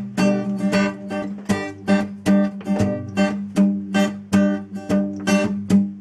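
Acoustic guitar strummed in a steady rhythm of about two to three strokes a second, with palm-muted downstrokes and upstrokes left to ring.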